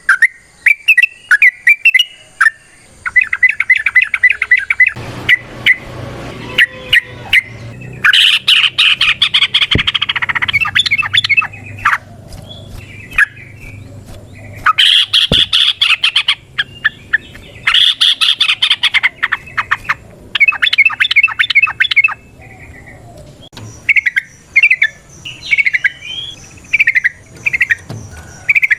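Yellow-vented bulbul (trucukan) singing: sweet whistled phrases broken by several long, fast chattering runs of notes, the rapid "ropel" song that keepers prize.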